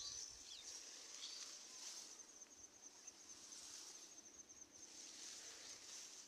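Faint, steady, high-pitched insect trill made of rapid, even pulses, like a cricket chirring.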